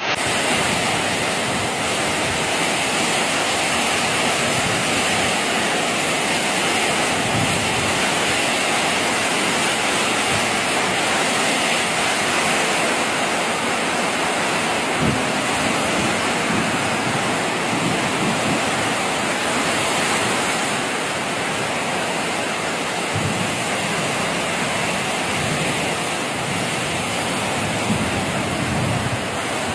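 Rain falling steadily, a continuous even hiss with a few faint low bumps.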